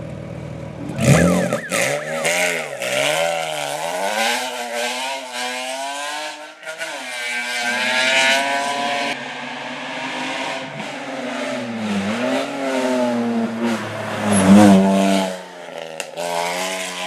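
Hill climb race car engine at high revs, its pitch repeatedly rising and falling through gear changes and lifts on the throttle. It is loudest near the end.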